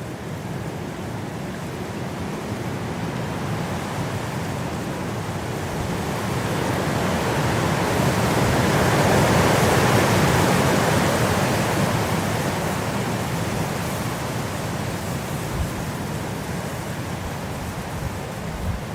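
Winter wind blowing, a steady rushing noise that builds to a strong gust about halfway through and then dies back down.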